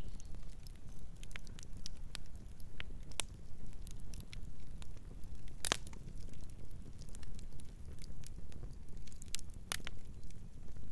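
Wood fire burning, with a steady low rumble of flames and irregular sharp crackles and pops, two of them louder, at about the middle and near the end.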